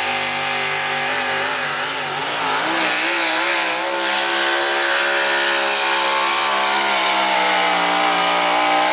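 Modified pulling truck's engine running at full throttle on a pull, its pitch wobbling up and down for the first few seconds, then holding steady at high revs.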